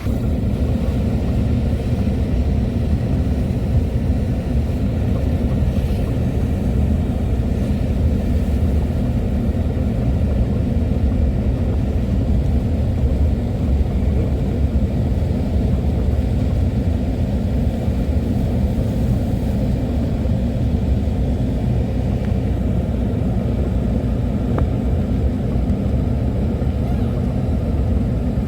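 Steady low rumble of a car driving, the road and engine noise that fills a moving vehicle.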